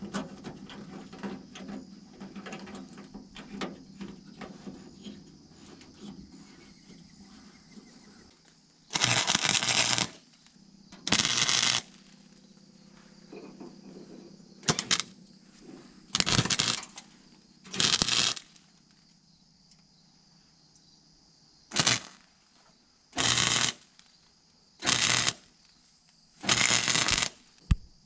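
Welder tack-welding a sheet-metal patch into a truck fender: about nine short bursts, each half a second to a second long, with pauses of a second or more between them. Faint handling knocks and rustle come before the first burst.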